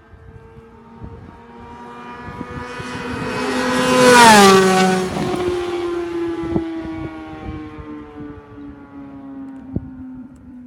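2008 Honda CBR600RR's inline-four, through a Two Brothers carbon fiber slip-on exhaust and Arrow headers, passing by at a steady high speed. The engine note grows louder, drops in pitch as the bike goes past about four seconds in, then fades away.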